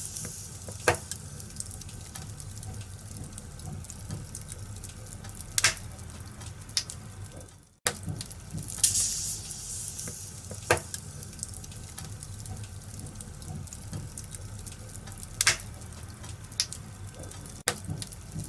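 Wood fire in a fireplace crackling, with sharp pops every few seconds and a brief soft hiss, over a steady low hum. The sound drops out for a moment a little before halfway through.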